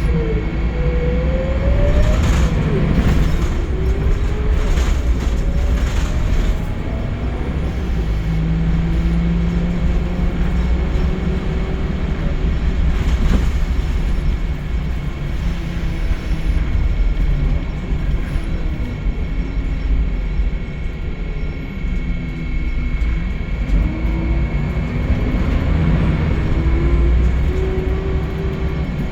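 Scania L94UB Wright Solar bus's diesel engine heard from on board under way. The engine note climbs and drops back with each gear change, most clearly near the start and again in the last third, over a steady rumble and a constant high whine.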